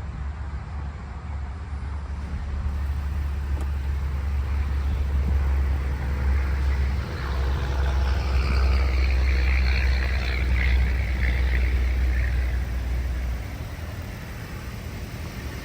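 Car driving: a steady low rumble with road and wind noise that builds up, holds, then eases off abruptly about thirteen seconds in.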